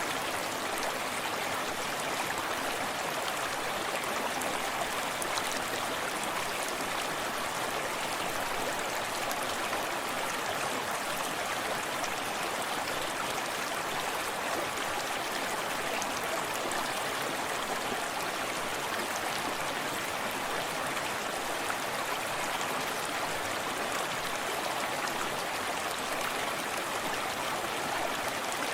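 A small forest stream running steadily over rocks, a continuous even rush of flowing water with gentle splashing.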